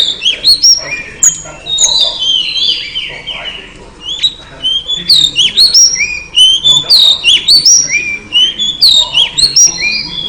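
Female Oriental magpie-robin calling: a rapid, loud run of short, sharp whistled chirps that glide in pitch, easing briefly about four seconds in before picking up again. This is the female call used to stir male magpie-robins into song.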